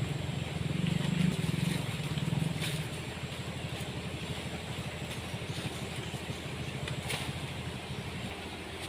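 A motor engine running with a low pulsing hum, louder for the first three seconds or so, then settling to a steadier, lower level.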